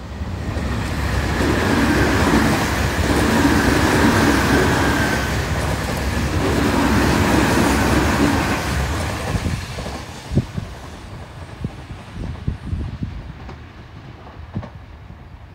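Electric train on the Tobu Railway line passing by: wheel and rail noise swells in at once, stays loud for several seconds with a thin whine over it early on, then fades. A few sharp clacks of wheels over rail joints follow as it goes away.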